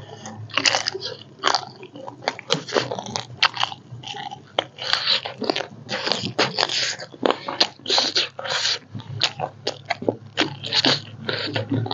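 A person biting and chewing food, with many short irregular crunching and mouth sounds, several a second.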